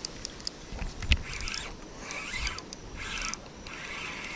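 Fishing reel being wound in short raspy bursts with a few sharp clicks, retrieving line on a freshly hooked fish.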